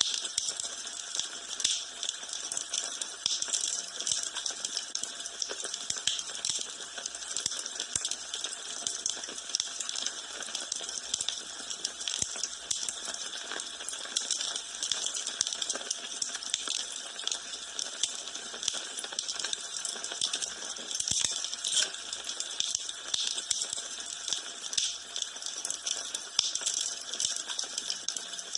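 Wood fire in a fireplace burning steadily, with a constant dense crackling and popping over a soft hiss.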